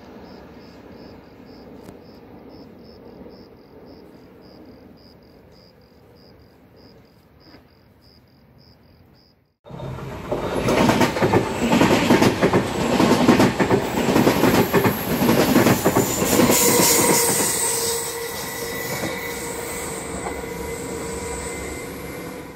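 Double-deck passenger train passing close by on an electrified line. After a quieter stretch of distant rumble with a faint regular chirp about three times a second, the sound jumps abruptly to the loud rush and clatter of the coaches going by. Steady high wheel-squeal tones come in during the second half, then the sound cuts off.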